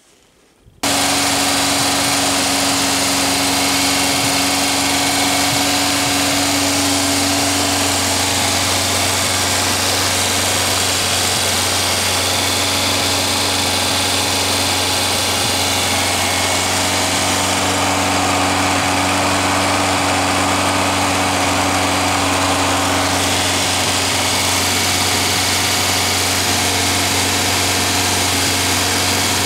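Air-cooled VW flat-four engine, a 2110 cc stroker built on a 1600 case, running at a steady held speed for new-camshaft break-in. The sound cuts in abruptly about a second in and then holds an even, unchanging pitch.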